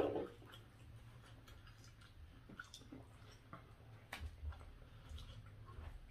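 Faint close-up chewing with scattered small mouth clicks and ticks, a person eating. A brief vocal sound right at the start and a couple of sharper clicks with soft low thumps about four seconds in.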